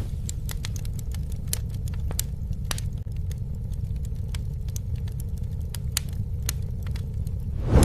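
Campfire crackling: irregular sharp pops and snaps over a steady low rumble, with a brief louder whoosh near the end.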